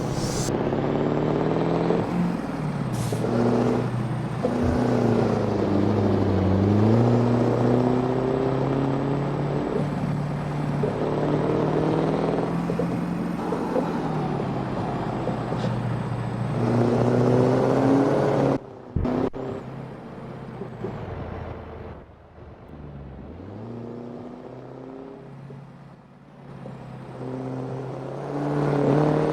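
Scania V8 truck engine running through a straight-pipe exhaust, its note dropping and rising again several times. It breaks off abruptly a little before the middle, runs quieter for a few seconds, then gets loud again near the end.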